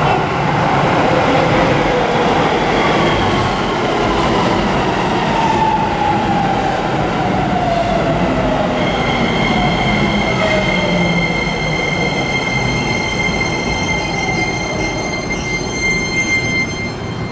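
Shin-Keisei N800 series train's Toyo IGBT-VVVF inverter whine over running noise, several tones falling in pitch as the train brakes. About halfway through, a set of steady high tones takes over as it nears a stop.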